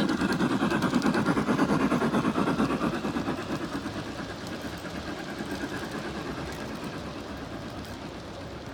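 Model train on a garden railway layout rolling past close by: a rumbling clatter of wheels on track, loudest in the first three seconds and then fading as it moves away.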